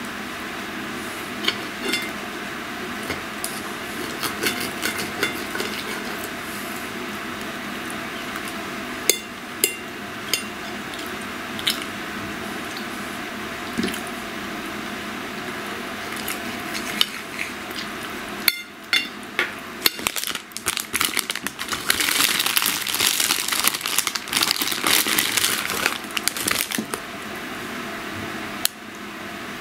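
Close-up eating sounds: scattered wet mouth clicks and chewing over a steady background hum, with a louder stretch of dense crackling, crunchy noise about two-thirds of the way through.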